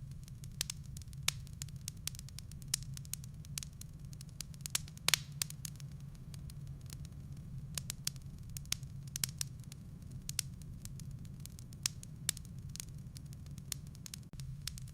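Wood fire burning in a fireplace: irregular sharp crackles and pops of the firewood over a steady low hum, with a louder pop about five seconds in.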